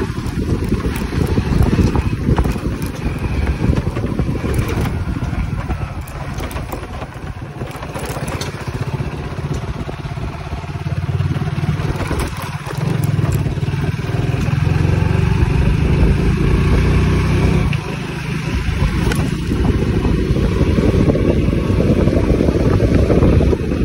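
Hero Splendor single-cylinder four-stroke motorcycle engine running while being ridden along a dirt lane, its note easing off and picking up again a few times.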